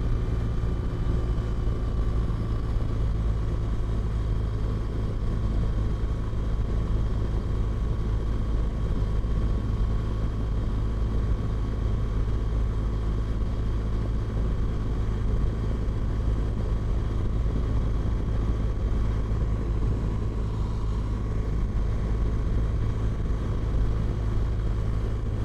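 Motorcycle ridden at a steady speed: a steady engine and road rumble with a few faint, even tones above it, no change in pace.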